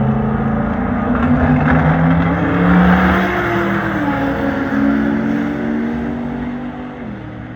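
Several car engines running at once, one revving up and holding higher revs before its pitch drops off about seven seconds in; loudest about three seconds in.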